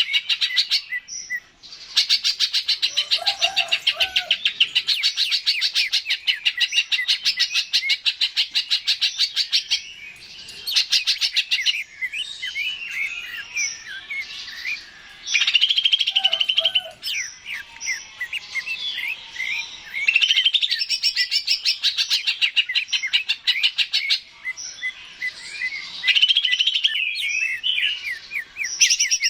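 Greater green leafbird (cucak ijo) singing: long, fast chattering trills alternate with varied warbled phrases and sweeping whistles, in bursts separated by short pauses.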